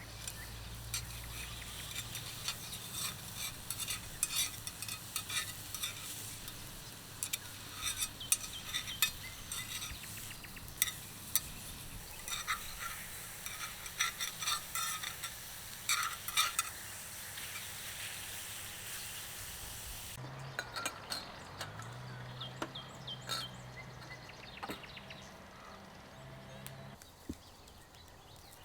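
Irregular small clicks, taps and scrapes of handling, like a utensil stirring against a pot or pan, over a steady hiss that cuts out about two-thirds of the way in.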